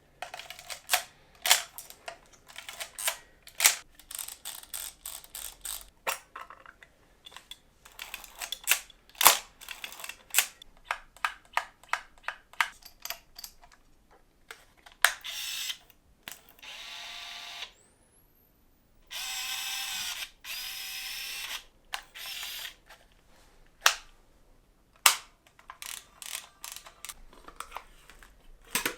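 Old film cameras being worked: a string of sharp shutter clicks and ratcheting film-advance clicks. About halfway through comes a steady mechanical whir of about two and a half seconds, then, after a short pause, a second, pitched whir of similar length.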